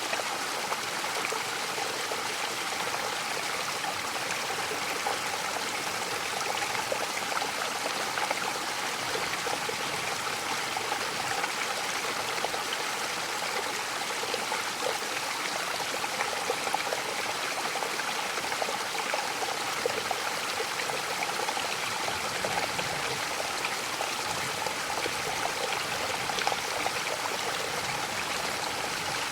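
Waterfall splashing and rushing steadily.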